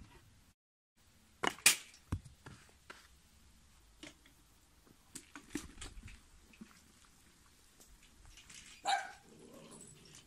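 Scattered sharp knocks and clicks, the loudest clustered about one and a half to two seconds in, then a single short animal call near the end.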